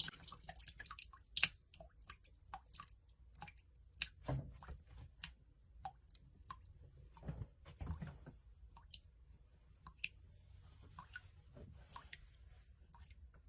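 Irregular light clicks and a few soft knocks, about two of them heavier, from hands handling and wiping things by the portable washing machine.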